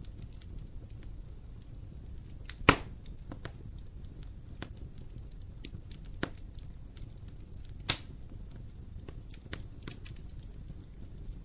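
Wood fire crackling in an open fireplace: a low steady rumble with many small crackles and two loud pops, one about a quarter of the way in and one about two-thirds in.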